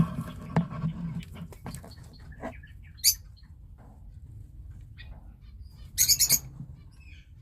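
Eastern rosellas calling: a single short high chirp about three seconds in, then a quick run of several loud, high calls about six seconds in. A few knocks sound in the first two seconds over a low background hum.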